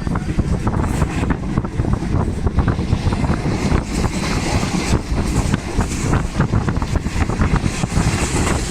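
Passenger train rolling into the station: a heavy low rumble with rapid, irregular clacks of the wheels over rail joints and points.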